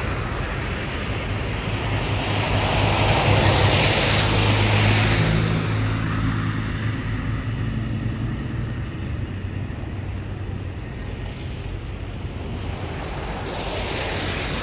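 Steady rushing noise with an engine hum underneath. The hum swells to its loudest about four seconds in and then fades.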